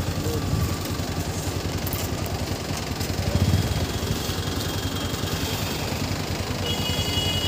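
KTM RC 390's single-cylinder engine running at low revs, a steady fast pulsing, briefly louder about three and a half seconds in.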